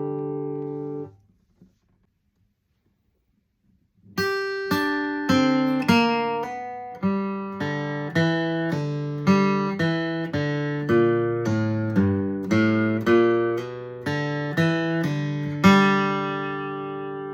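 Flatpicked acoustic guitar. A ringing chord stops about a second in, and after a pause of about three seconds comes a lick of single picked notes at roughly two a second. It ends on a chord left ringing.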